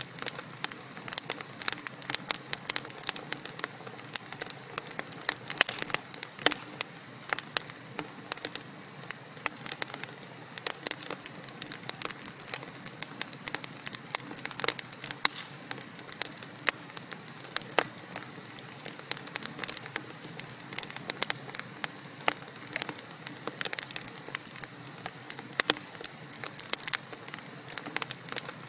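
Wood fire burning in a fireplace: logs crackling and popping with many irregular sharp snaps over a steady hiss of flame.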